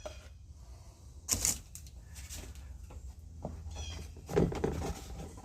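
Dry concrete mix being scooped and added to a kitchen mixing bowl: scattered scrapes and knocks, the loudest about a second in and again near the end, over a steady low hum.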